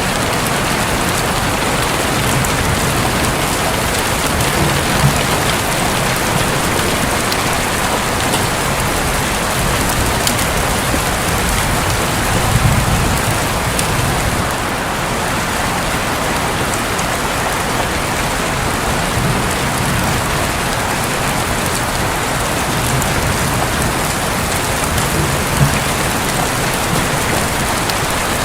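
Heavy rain falling steadily on a roof, a dense even patter, with low rumbles of thunder swelling a few times.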